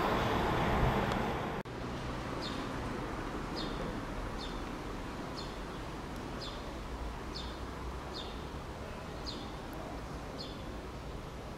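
Loud train noise that cuts off abruptly about a second and a half in, giving way to a quieter steady background. Over it a bird gives a short, falling chirp about once a second, nine times.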